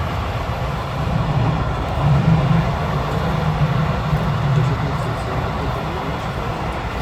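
Passenger train running along the track: a steady low rumble with rolling noise, swelling a little from about one to five seconds in.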